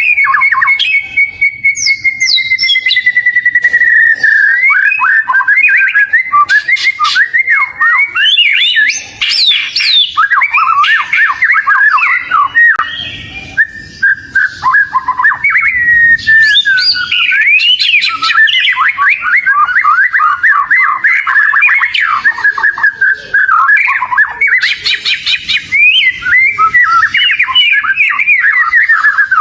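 Oriental magpie-robin (kacer) singing a continuous, loud song of rapid varied whistles, trills and glides, opening with a long held whistle that slowly falls in pitch.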